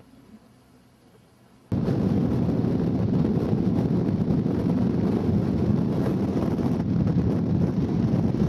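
Near silence, then from about two seconds in a sudden loud, steady roar of strong wind buffeting the microphone.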